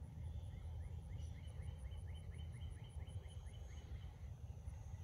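A bird gives a run of a dozen or so short rising chirps, about four a second, that stop about three-quarters of the way through, over a steady low rumble. A faint, fast, even insect pulsing sits high above.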